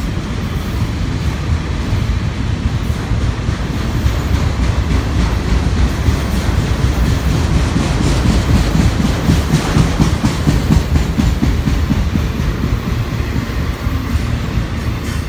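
Freight train rolling past: autorack cars make a steady rumble of steel wheels on rail, with repeated clacks as the wheels cross rail joints.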